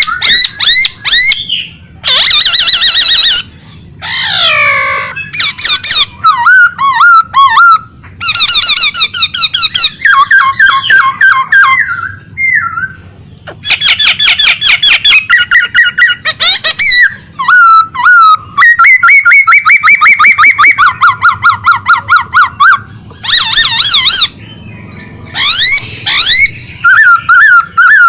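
A kept songbird singing loudly and without letup: rapid, repeated whistled notes, fast trills and sweeping phrases that change every few seconds, with only short pauses between them.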